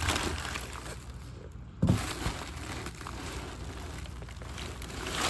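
Rustling and handling noise from packaging and new suspension parts being unboxed, with a sudden knock about two seconds in.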